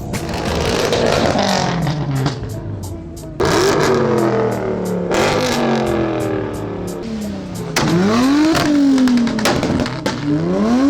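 Car engine revving repeatedly, its pitch climbing and falling several times, with music playing underneath.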